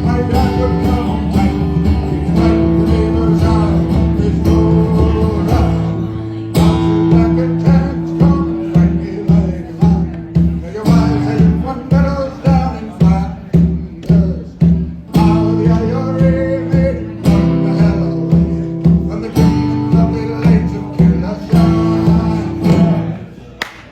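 Live acoustic folk music: strummed acoustic guitar over steady held low notes, with a melody line weaving above. The strumming settles into an even pulse about six seconds in, and the piece stops shortly before the end.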